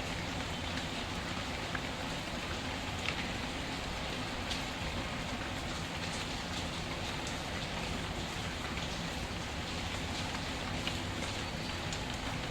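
Steady rain with a few sharp pops from a crackling wood fire scattered through it.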